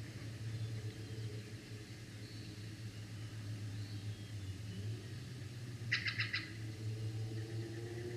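A bird gives a quick series of about six high chirps about six seconds in, over a steady low hum. A faint drone rises in pitch near the end.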